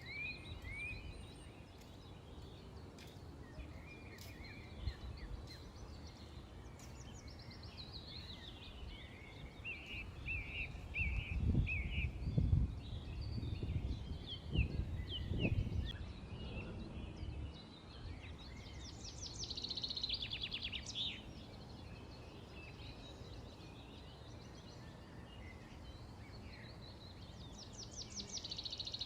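Small songbirds chirping and twittering, with two fast trills in the second half. A low rumble swells for a few seconds near the middle and is the loudest sound.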